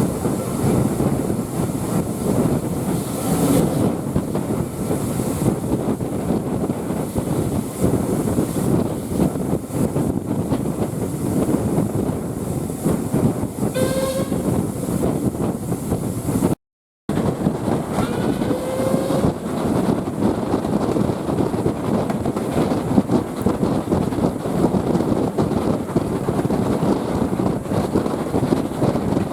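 Heritage railway train running on the track, a steady rumbling clatter throughout. A brief rising whistle-like tone sounds twice around the middle, and the sound cuts out for a moment just past halfway.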